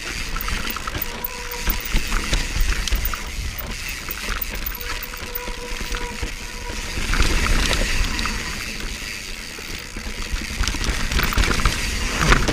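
Mountain bike riding down a steep, dry dirt trail: tyre noise on the ground with frequent rattles and knocks from the bike, and wind rumbling on the camera microphone.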